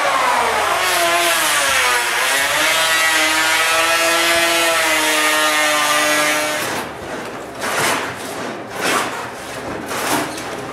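An electric power tool's motor cutting a rabbet into a wooden plank: its whine drops in pitch as it bites into the wood, holds steady under load, then stops about seven seconds in. This is followed by several short scraping strokes about a second apart.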